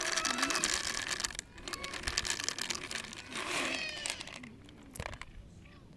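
Stray cat meowing twice, once near the start and again about three and a half seconds in, over crackling like a plastic bag being crinkled.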